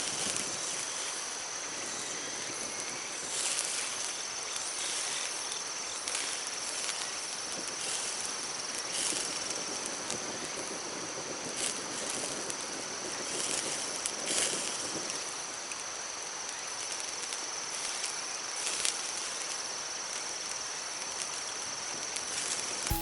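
A stream running with a steady rushing sound, under the thin, unbroken high buzz of insects and a few short clicks.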